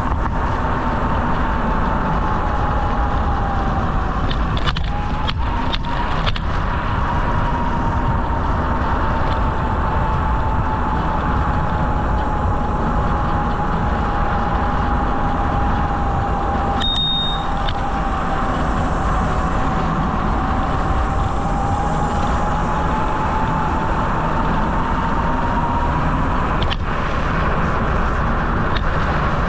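Steady rushing wind and rolling noise from riding a bicycle along a trail, with a thin whine that slowly drifts in pitch. A few sharp clicks come about five to six seconds in and again near the end.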